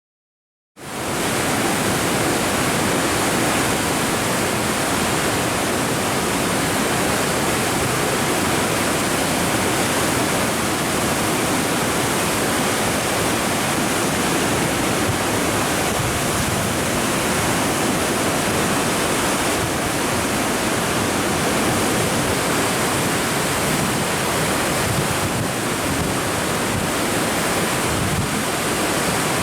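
Steady rush of the Sogi Falls on the Sendai River in flood, swollen muddy floodwater pouring over the falls after torrential rain. It starts abruptly about a second in.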